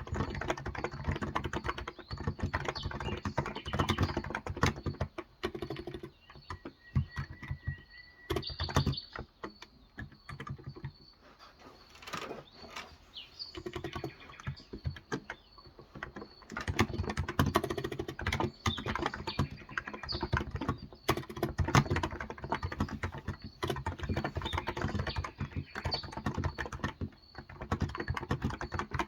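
Continuous typing on a Cox Endeavor tenkeyless keyboard with electrostatic capacitive 35 g switches: quick runs of keystrokes broken by a couple of short pauses. Birds chirp faintly in the background.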